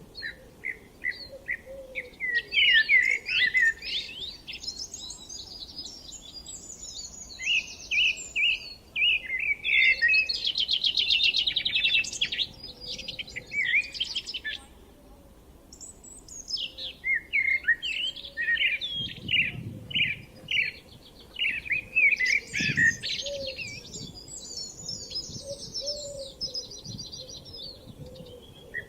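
Songbirds singing in overlapping phrases: quick runs of short chirps, varied warbling notes, and a fast trill about ten seconds in.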